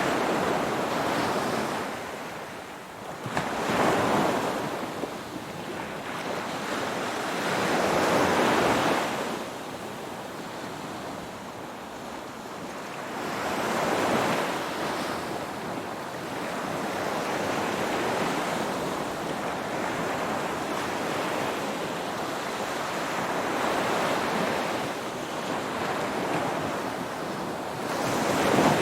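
Ocean waves breaking and washing on a shore: the surf swells and falls back every few seconds, about five surges.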